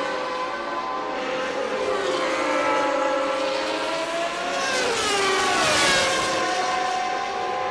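Several 1989 Formula One cars' naturally aspirated 3.5-litre engines running at high revs, more than one engine note heard at once. One car comes closer and passes, loudest about six seconds in, its note falling in pitch as it goes by.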